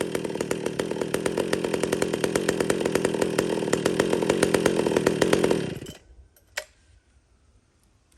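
Two-stroke chainsaw with a freshly hand-filed chain running, growing a little louder, then stopping abruptly about six seconds in. A single sharp click follows, then only faint ticks.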